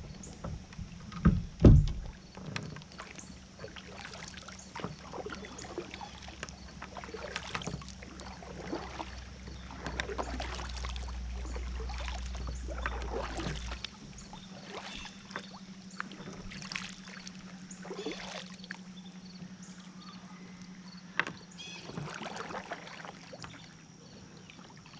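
Kayak being paddled: a run of short, regularly repeating paddle strokes splashing in the water. Two loud knocks come a second or two in, and a low steady hum runs under the first half, stopping about halfway through.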